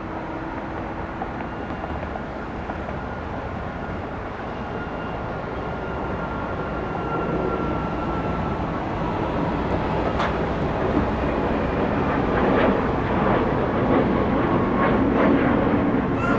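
Boeing 757-200 jet engines: a steady rush of jet noise with a faint whine sliding slightly down in pitch, growing louder and rougher over the second half.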